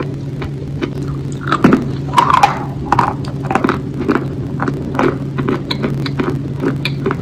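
A person chewing food close to the microphone: a run of soft wet clicks and smacks, several a second, loudest about two to three seconds in, over a steady low hum.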